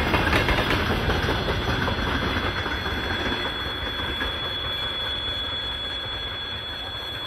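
Freight train wagons rolling away on the rails: the wheel-on-rail rumble fades steadily as the train recedes, with a thin, steady high whine from the wheels and rails.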